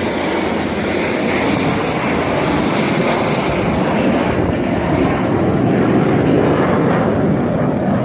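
Aircraft engine noise, a broad steady roar that grows slowly louder.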